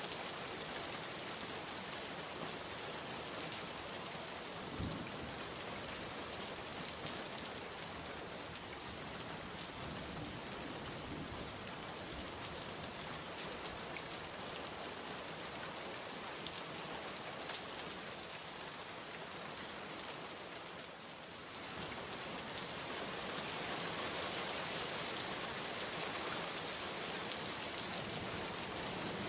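Steady rain falling, an even hiss of many drops. It dips briefly about two-thirds of the way through, then comes back slightly louder.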